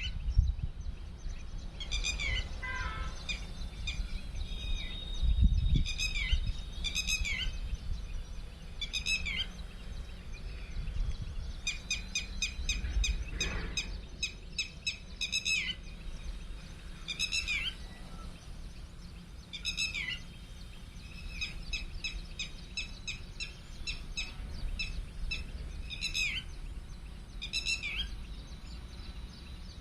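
Birds calling: a short falling call repeated every second or two, with a fast run of rapid notes for a few seconds in the middle. A low rumble swells and fades underneath.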